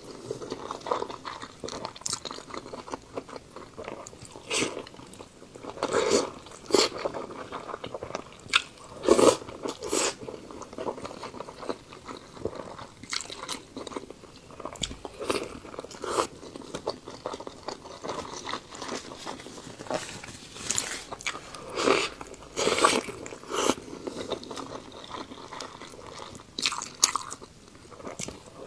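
A person chewing and biting food close to the microphone, with irregular crunches and clicks from the mouth.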